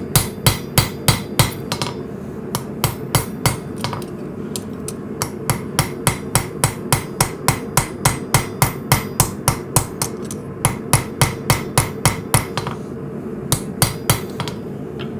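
Forging hammer striking hot coil-spring steel to shape a knife's integral bolster: sharp blows about three a second, in several runs with short pauses between. A steady low rushing noise runs underneath.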